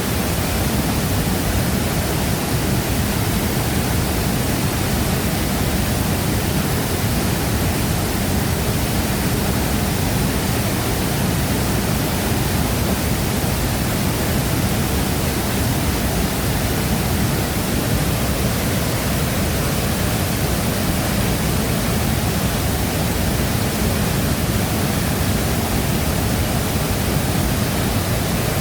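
A large waterfall's falling water: a steady, full rushing roar with a deep low rumble, unchanging throughout.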